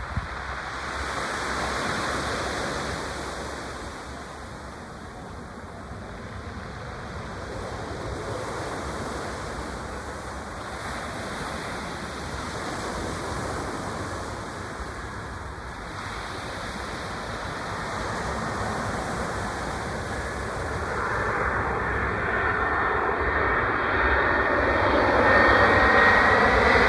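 Tupolev Tu-214 jet airliner's PS-90A turbofans on landing approach, a steady rush of jet noise growing gradually louder. A thin rising whine comes in over the last several seconds.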